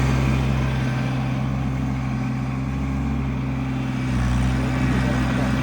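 A motor vehicle's engine running steadily, a low hum that dips slightly in the middle and picks up again near the end.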